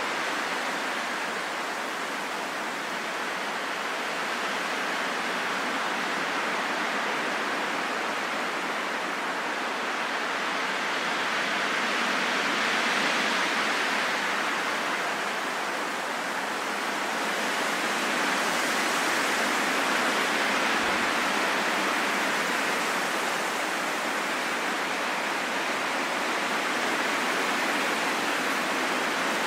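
Steady wind, a soft even rushing that swells and eases gently every few seconds, with no gusts or whistling.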